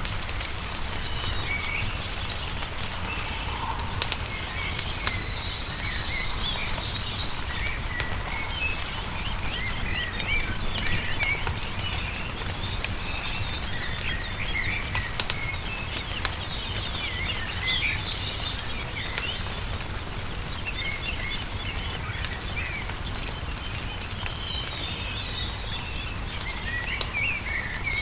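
Songbirds chirping and singing in short, rapid phrases, with the sharp pops of a crackling wood fire scattered through and a steady low rumble underneath.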